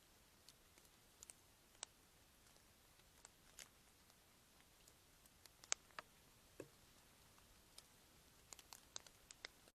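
Scattered sharp clicks and ticks at irregular intervals over near silence, with a cluster of them near the end.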